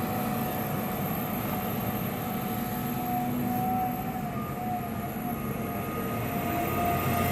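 John Deere 350G LC hydraulic excavator's diesel engine running steadily under work, with a thin steady whine from the machine over the rumble.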